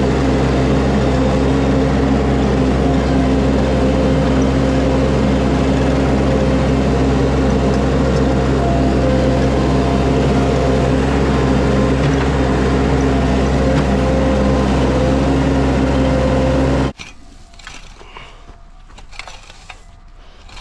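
Skid steer engine running steadily at constant speed under a loud, even drone, cutting off suddenly about seventeen seconds in.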